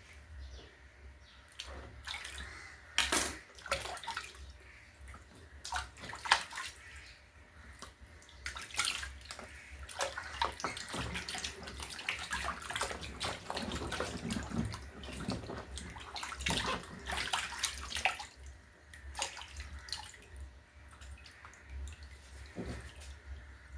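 Water splashing and sloshing in a basin with many irregular splashes and knocks, busiest in the middle and thinning out towards the end, typical of a chicken being washed or handled in water.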